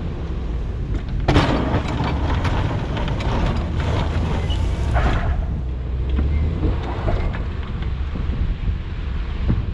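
Wind rumbling on the phone's microphone, with a burst of scraping, rustling and knocking from about one to five seconds in as the phone is handled onto the truck's roof mount.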